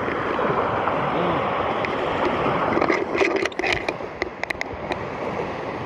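Steady rushing of water around a drifting inflatable kayak. About halfway through the rushing drops a little, and a run of small sharp knocks and clicks begins.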